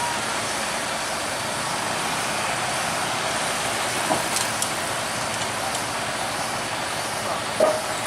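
Steady road traffic noise from passing vehicles, with a few brief clicks about four seconds in and a short sound near the end.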